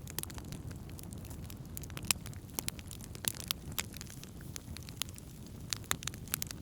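Wood campfire burning: irregular sharp crackles and pops over a steady low rumble of the flames, with one louder pop about two seconds in.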